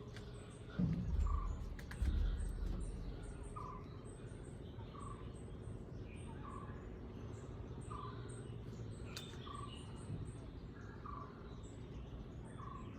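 Forest birds calling. One bird repeats a short call about every second and a half, over faint high chirps. Two loud low rumbles come in the first few seconds.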